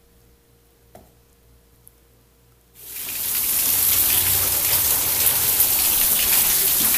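Heavy rain pouring down and splashing on the ground, starting abruptly about three seconds in and then steady and loud. Before it, near quiet with a single faint click.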